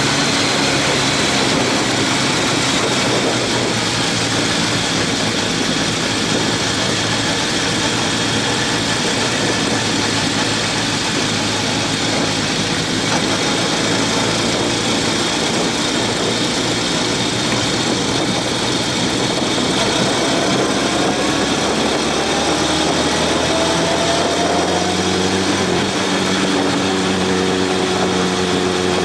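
Motorcycle engine running under way, mixed with a strong steady rush of wind noise. About two-thirds in the engine's pitch rises as it speeds up, then holds steady.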